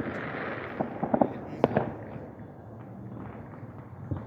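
Fireworks going off: a cluster of sharp pops and crackles in the first two seconds, then a quieter steady hiss as the bursts die away.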